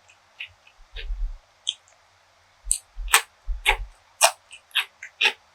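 Close-miked eating sounds: chewing with irregular sharp, crisp mouth clicks and crunches, a few a second, and a few soft low thumps around one second and three to four seconds in.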